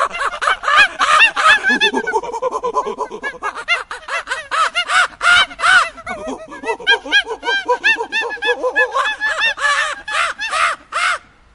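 A flock of birds calling all at once: many short calls that rise and fall in pitch, overlapping in quick succession and stopping abruptly near the end.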